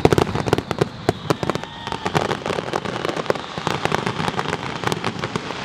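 Aerial fireworks bursting in rapid succession: a dense barrage of sharp bangs and crackles, thickest in the first couple of seconds.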